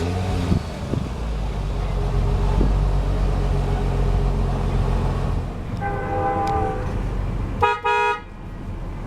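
The Chrysler 300M Special's 3.5-litre V6 idling steadily. A car horn toots twice, briefly about six seconds in and louder near eight seconds in.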